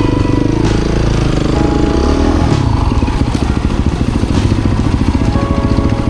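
Off-road motorcycle engine running under throttle while riding a mud course, its pitch rising and falling through the first couple of seconds, then settling into a steady low chug. A few sharp knocks and clatters are mixed in.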